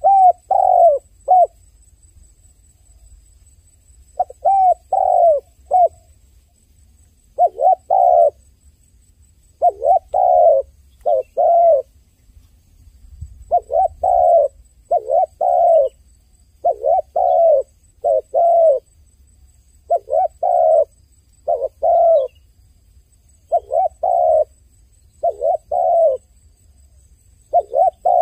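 A dove cooing over and over, in short phrases of two to four coos that come every couple of seconds.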